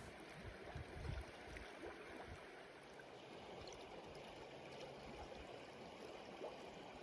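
Faint, steady outdoor ambience: a soft, even hiss, with a few low thumps in the first two seconds.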